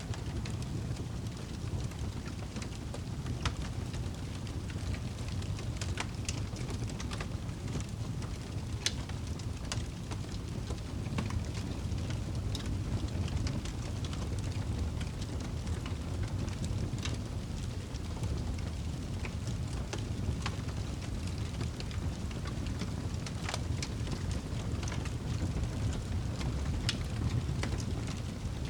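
Campfire burning, with sharp crackles and pops at irregular intervals over a steady low rush.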